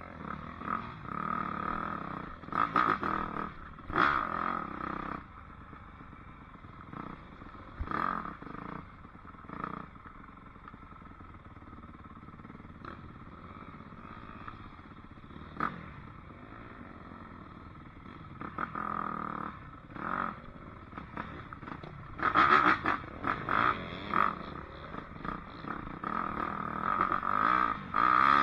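Dirt bike engine running under a rider, throttling up and easing off, with sharp knocks and clatter now and then and louder surges late on.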